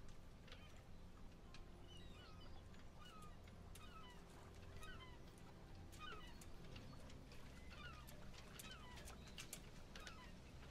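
Faint, distant bird calls: short chirping notes repeated many times, over a low steady background hum.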